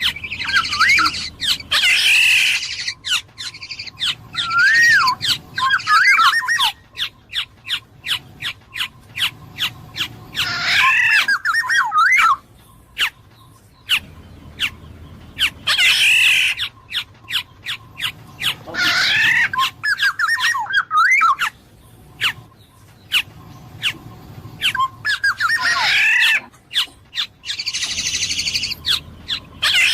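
Black-naped oriole (kepodang emas) singing loud, clear, fluty whistled phrases that glide up and down, a phrase every few seconds, with rapid sharp clicks in the gaps between phrases.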